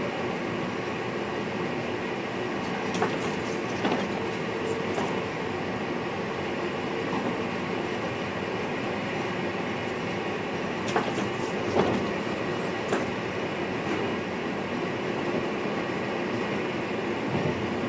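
NS VIRM double-deck electric train running, heard from the driver's cab: a steady rolling noise with a few sharp clacks from the wheels over rail joints or points, in small clusters about three seconds in, around eleven to fourteen seconds, and near the end.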